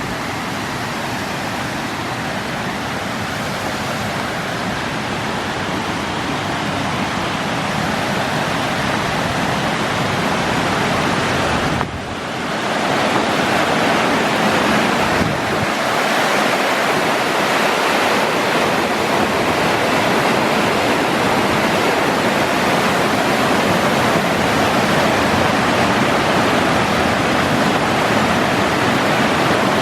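Waterfall: a steady rush of falling water, growing slightly louder over the first dozen seconds. It drops out briefly about twelve seconds in, then comes back stronger.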